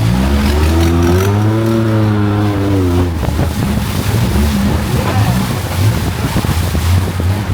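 Longtail boat engine revving up, holding, then easing off about three seconds in. Water splashes and churns after it.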